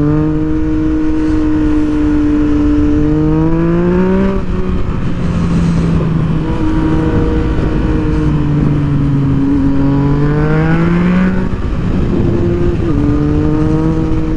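Motorcycle engine under way, pitch climbing as it pulls and dropping back at each gear change, several times.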